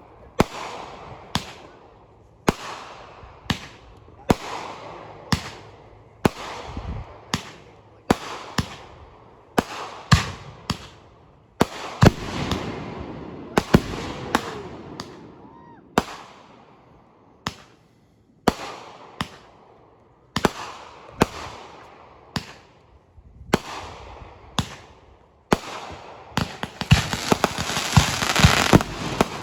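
Fireworks going off: sharp bangs about once a second, each followed by a fading crackle, with a denser, louder run of crackling reports near the end.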